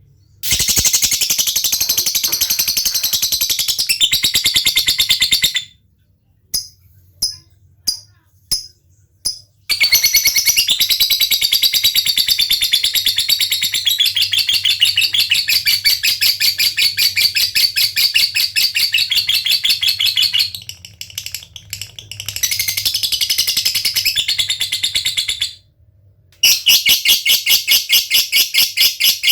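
Lovebird singing: long runs of rapid, high-pitched chattering trills ('ngekek'), each several seconds long. About six to nine seconds in, a handful of single sharp chirps stand apart. Near the end comes a run of evenly spaced clicking notes, about six a second ('ngetik').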